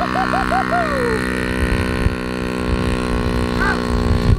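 Small child-size dirt bike engine idling steadily, with a voice giving a few quick rising-and-falling calls in the first second.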